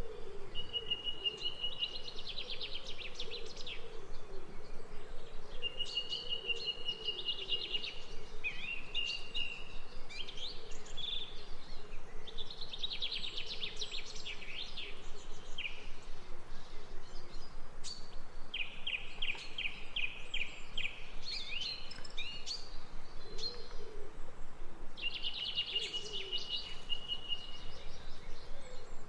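Songbirds singing: short phrases of rapid, high trilled notes repeat every few seconds over a steady background hiss.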